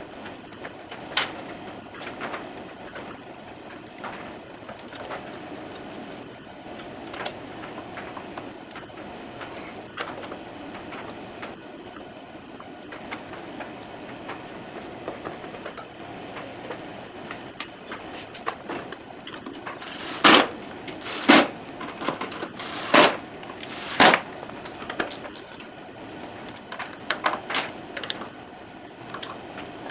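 Steady background hum with scattered light clicks and handling noises. About twenty seconds in come four loud, sharp knocks or clanks, a second or so apart, followed near the end by a few lighter clatters.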